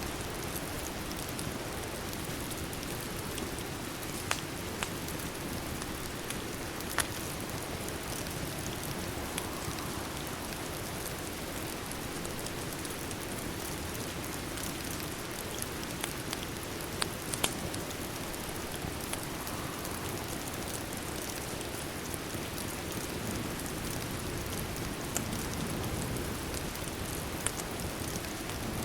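Steady rain falling, an even hiss with no pauses, with a few sharp clicks scattered through it, several of them close together about four and seventeen seconds in.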